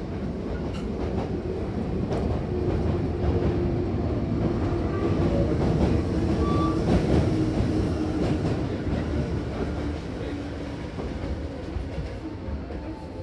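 Running noise inside a Hankyu Kobe Line train car: a steady rumble of wheels on rail with a faint low tone underneath. It grows louder to a peak about six or seven seconds in, then eases off.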